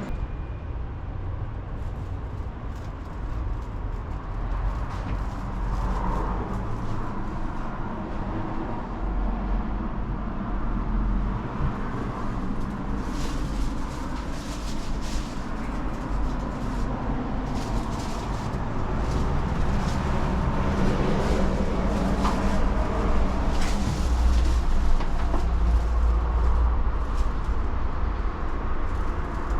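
A train running on rails: a steady low rumble that grows louder in the last third, with sharp clicks and rattles from about twelve seconds in.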